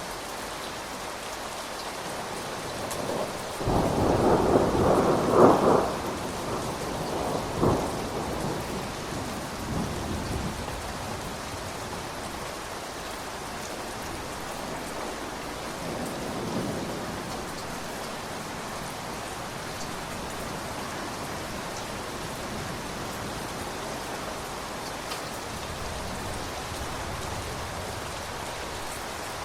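Steady rain falling, with a loud clap of thunder about four seconds in that rumbles on more faintly for several seconds after.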